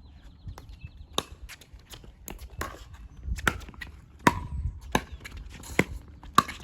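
A pickleball rally: paddles striking the plastic ball in a string of sharp pops, about one every second or less, with the ball bouncing on the court and shoes scuffing between shots.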